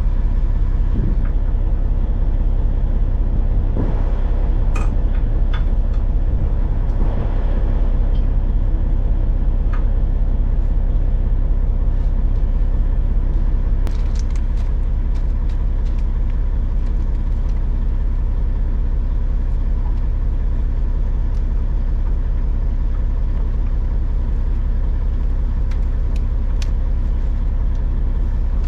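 Dump truck's diesel engine running steadily with a low rumble, with a few sharp clicks and knocks over it, most of them in the first half.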